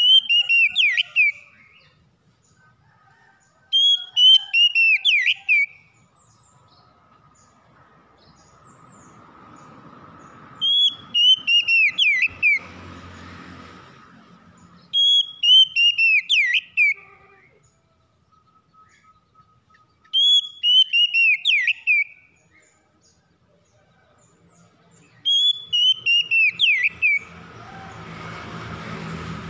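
A songbird repeating the same short song phrase about six times, every four to six seconds: a quick run of sharp, downward-sliding whistled notes lasting about two seconds. A low rumble swells in the background twice, in the middle and near the end.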